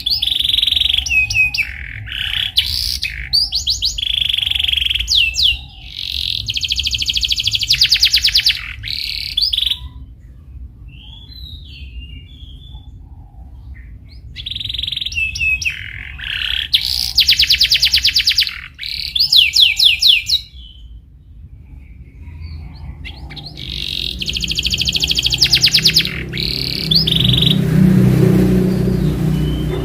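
Domestic canary singing in phrases of high chirps and very fast rolling trills, with pauses of a few seconds between phrases. A rough, noisy rumble rises under the song near the end.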